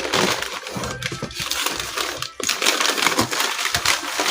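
Newspaper packing crumpling and crackling continuously as it is handled and pulled out of a box.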